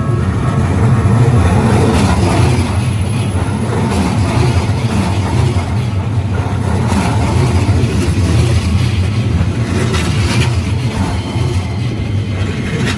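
Keikyu Line electric train running over a level crossing: a steady rumble, with a few sharp wheel knocks over the rail joints.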